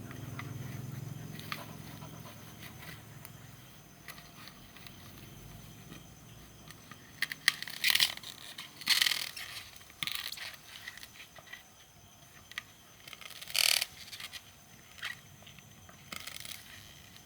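A dog gnawing and tearing at a coconut husk: irregular scraping and crunching, loudest about eight to ten seconds in and again near fourteen seconds, after a low rumbling in the first few seconds.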